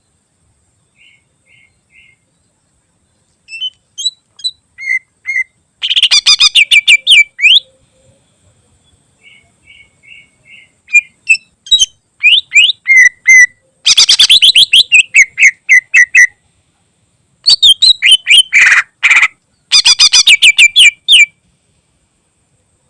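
Green leafbird (cucak ijo) singing a loud, mimicry-filled song: a few soft notes, then four bursts of rapid, chattering high notes, each lasting a few seconds.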